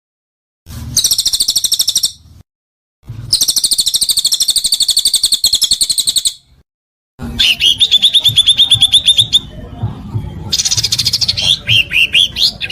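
A songbird singing harsh, rapid trills in three bursts separated by short pauses. The last burst ends in a run of downward-sweeping notes. This is a 'kasaran' (harsh) song phrase of the kind used as masteran to train songbirds.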